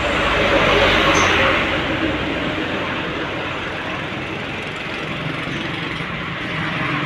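Road traffic noise from a heavy vehicle driving past: a dense rush of tyre and engine noise. It is loudest in the first second and then slowly fades.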